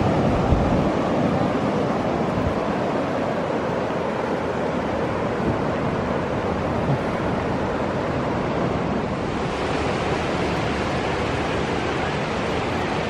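Pacific Ocean surf washing steadily onto the beach, with wind buffeting the microphone; the hiss of the surf grows brighter about ten seconds in.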